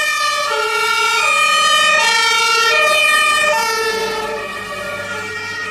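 Toy fire truck's electronic two-tone siren, a high note and a low note alternating about every half second, fading toward the end.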